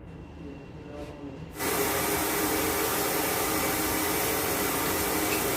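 Compressed air hissing loudly out of the air line, starting suddenly about a second and a half in and holding steady.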